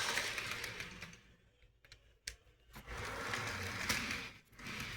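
A small model locomotive's electric motor whirring and rattling through its gears in two spells, with a few sharp clicks. The motor over-revs, which the owner puts down to some sort of gear problem.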